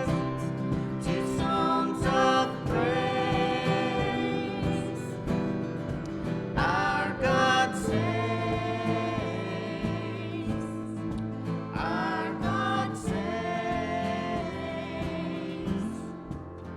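Church music: voices singing long held notes with vibrato over instrumental accompaniment.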